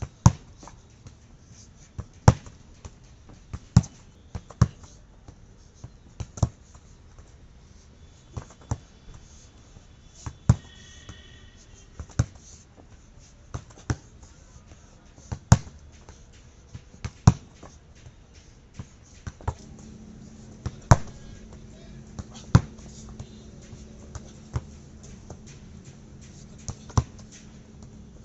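Football being struck by a foot over and over, sharp single thuds about every one to two seconds at an uneven pace, sometimes two close together.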